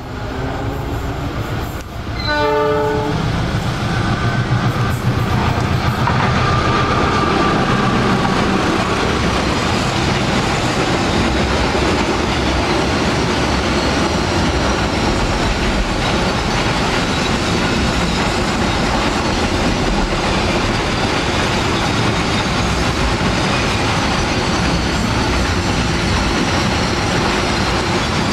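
Container freight train passing close by: the horn of its CC 206 diesel-electric locomotive sounds once, briefly, about two seconds in. Then the locomotive and a long string of container flat wagons go by in a loud, steady rumble of wheels on the rails.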